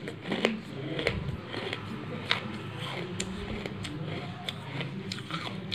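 Close-up mouth sounds of biting and chewing a crumbly chunk of red khadi (chalk clay): scattered sharp crunches and crackles at uneven intervals, over a low steady hum.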